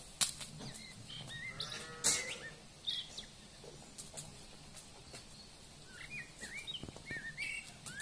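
Songbird calling in short whistled notes, a quick run of them in the last two seconds, over scattered sharp clicks. A single bleating call sounds about one and a half seconds in.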